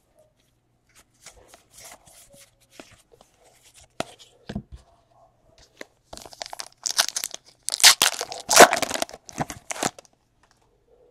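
Trading-card pack wrapper being torn open and crinkled, after a few seconds of light handling noises. The tearing is loudest in a run of rasping strokes from about six to ten seconds in.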